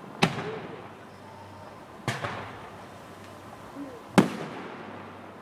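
Fireworks display: three loud aerial shell bursts about two seconds apart, each bang trailing off in an echo.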